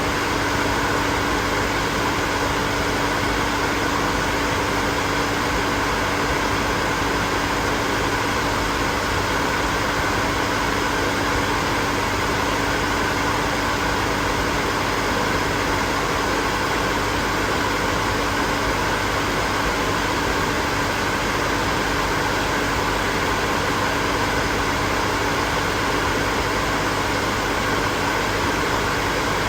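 Hair dryer running steadily: an even whooshing rush of blown air with a constant motor hum beneath it.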